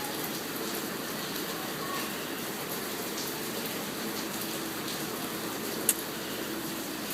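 Heavy rain pouring down in a steady hiss, with one sharp click about six seconds in.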